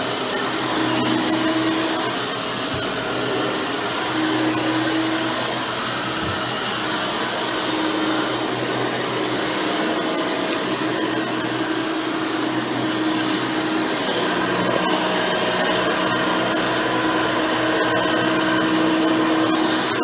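Hoover Elite Supreme upright vacuum, with a 20-blade upgraded fan motor and a single-row stiff-bristle brush roll, running steadily while vacuuming; its motor tone wavers slightly as it is worked over the floor.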